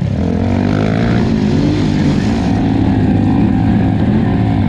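Polaris Scrambler 1000 XP ATV's parallel-twin engine running steadily at low to moderate revs, its pitch shifting slightly.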